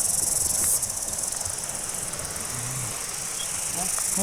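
Cicadas singing in chorus: a steady, high, shrill buzz that drops a little in level about a second in.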